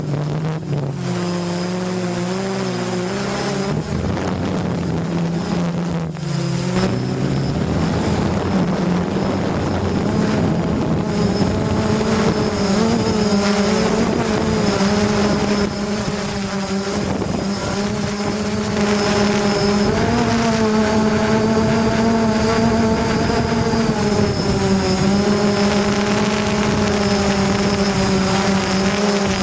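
DJI Phantom quadcopter's motors and propellers buzzing in flight. The pitch dips and wavers over the first several seconds as the throttle changes, then holds steadier.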